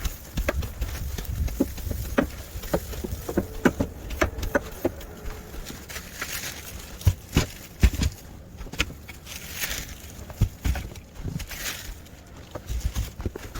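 Footsteps crunching in deep snow: irregular crackles and heavier crunches, over a low rumble of wind on the microphone.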